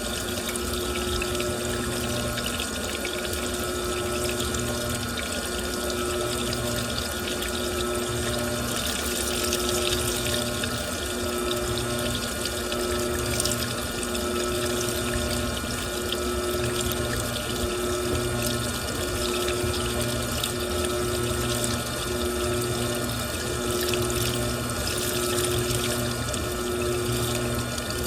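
Washing machine running with water rushing, and a hum that pulses on and off with a steady beat about every second and a half.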